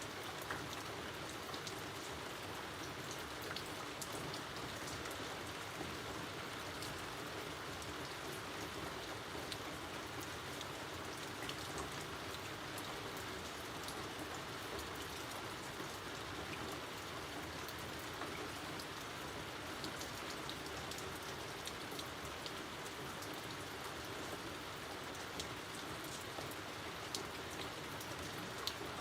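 Steady rain falling outdoors, an even hiss with the scattered sharp ticks of single drops hitting a surface.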